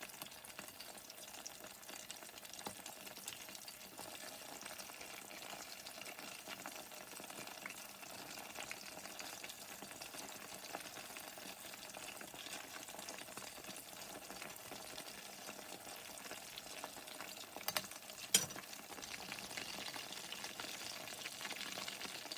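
Flour-coated chicken pieces shallow-frying in hot oil: a steady sizzle with fine crackling. Two sharp clicks come a little over three quarters of the way through.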